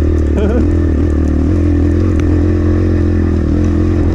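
Templar X 250 dirt bike engine pulling steadily in first gear, holding a fairly even pitch while the bike climbs a steep hill.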